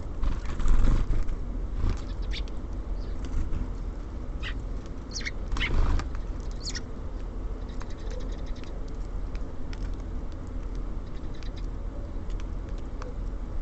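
Small songbirds at a feeder, with many light pecking and scratching clicks and a few short high chirps around the middle. Two louder rustling bursts come near the start and about six seconds in.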